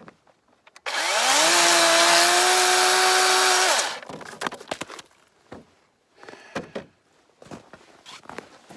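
DeWalt 20V brushless 12-inch cordless chainsaw running once for about three seconds, cutting dead birch. Its electric whine rises as it spins up, holds steady, then stops suddenly. A few light knocks follow.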